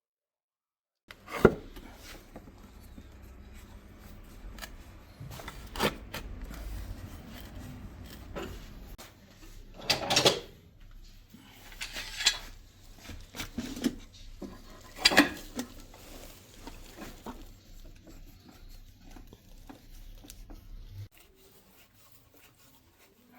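Workshop handling sounds: a loud sharp knock about a second in, then scattered knocks, clinks and rubbing as hard objects are handled and set down, over a low steady hum that cuts out near the end.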